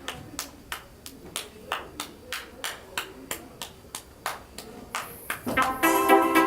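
A run of sharp, evenly spaced taps, about three a second. About five and a half seconds in, an electronic keyboard accompaniment starts playing and takes over.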